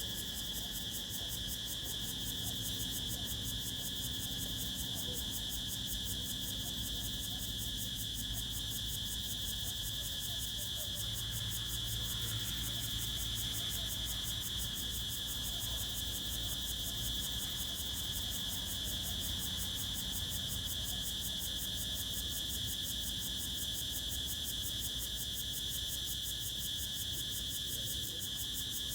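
Crickets chirring in a steady, high-pitched, unbroken drone, with a faint low rumble underneath.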